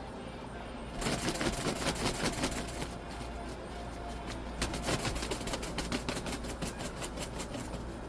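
A chicken's wings beating rapidly and repeatedly against the ground just after its neck has been dislocated with a broomstick: the reflex flapping of nerves after death. The fast flapping starts about a second in, eases briefly, and picks up again about halfway through.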